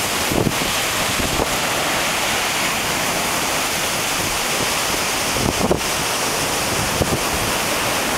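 Steady wind blowing across the microphone over the rush of ocean surf, with a few short gusts buffeting the mic.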